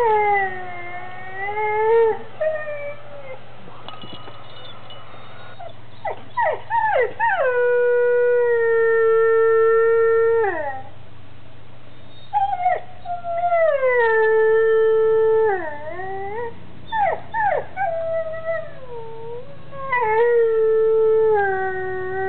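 Schnauzer howling in reaction to being given a treat, a lamb bone: several long drawn-out howls, each held and then falling off, with short rising yelps in between.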